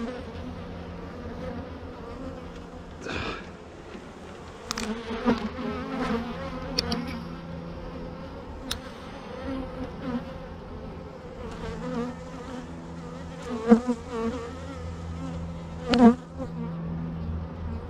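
Honeybees buzzing in a steady hum from an opened hive, with a few sharp knocks, the loudest two coming late, about two seconds apart.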